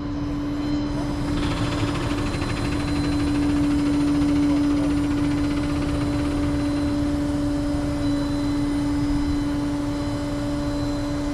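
Car-hauler trailer's hydraulics running to lower a deck: a steady mechanical hum with one constant tone, unchanging throughout.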